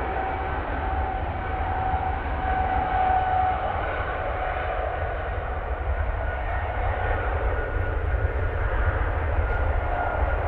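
Jet airliner engines running steadily: a continuous roar with a low rumble and a faint steady whine in two pitches.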